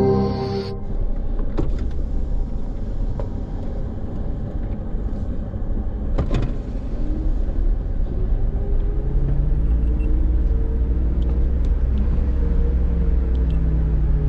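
Four-wheel-drive's engine running as the vehicle drives along a rough bush track, with sharp knocks about one and a half and six seconds in. The engine note climbs slowly in the second half.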